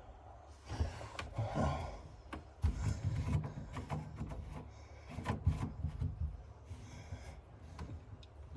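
Handling noise: irregular rubbing and scraping with scattered short knocks and low rumbles.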